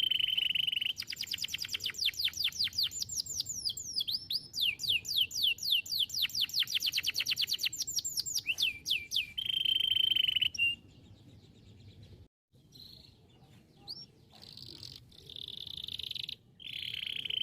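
Domestic canary singing: long fast trills of repeated falling whistled notes, framed by held steady whistles. Past the middle the song drops to a few seconds of soft, scattered notes, and a held whistle comes back near the end.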